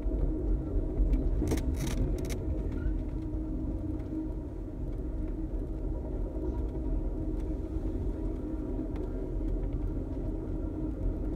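Steady rumble of a moving passenger train heard from inside the coach, with a constant hum running through it and a few short sharp clicks about two seconds in.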